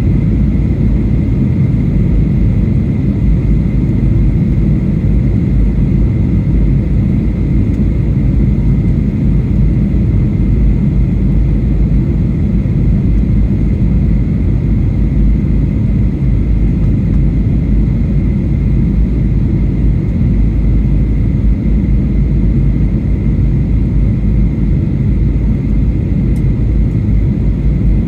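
Steady cabin noise of a Boeing 737-800 airliner in flight: an even low roar of the jet engines and airflow, with a faint steady high whine above it.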